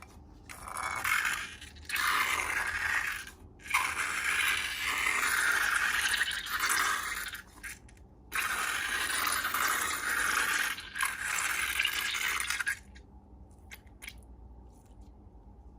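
Scraping and rustling handling noise from slime and balloon material being worked by hand, in four stretches of a few seconds each with short pauses between, then only a few faint clicks near the end.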